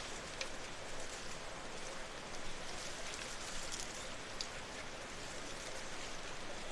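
Steady rain falling, with single drops tapping sharply now and then.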